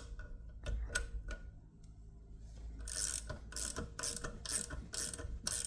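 Ratcheting wrench clicking as it turns the drive nut down on a valve spring compressor, compressing a heavy-duty valve spring. There are a few scattered clicks at first, then a steady run of ratchet strokes, about two a second, from about three seconds in.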